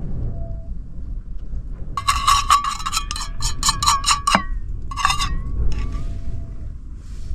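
A quick run of bright, ringing clinks, about eight strikes in two and a half seconds, then two more a little later, over a steady low rumble.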